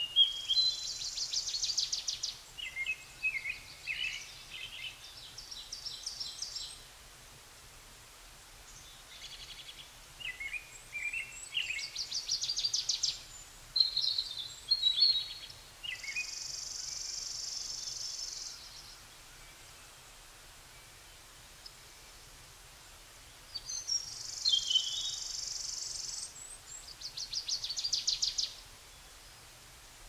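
Songbirds singing: high chirps and fast trills of rapidly repeated notes, with three buzzy trills of two to three seconds each, separated by quiet pauses.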